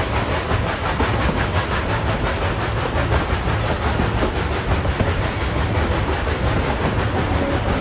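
Steady rumble and clatter of a steam train's passenger car rolling along the track, heard from on board, with faint clickety-clack from the wheels.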